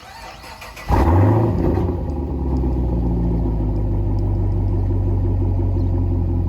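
2015 Camaro SS 6.2-litre V8 with a muffler delete cold-starting: a click and brief cranking, then about a second in the engine catches with a loud rev flare and settles into a steady, deep idle.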